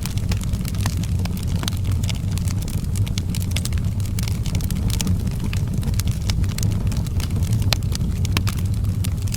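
Outdoor fireplace fire crackling: frequent irregular sharp pops and snaps over a steady low rumble.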